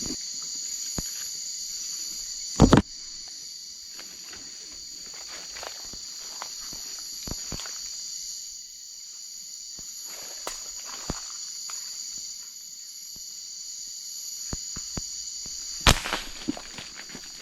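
Night insects, crickets, trilling in a steady high chorus, with scattered small clicks and rustles. Two sharp loud snaps cut through, one about three seconds in and one near the end.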